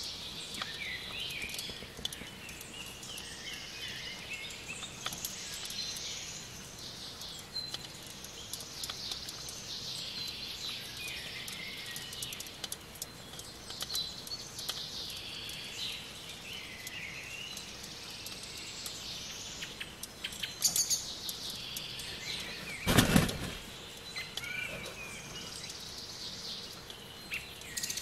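Songbirds chirping and warbling in the background, phrase after phrase, with a few light clicks and a single dull knock about three quarters of the way through.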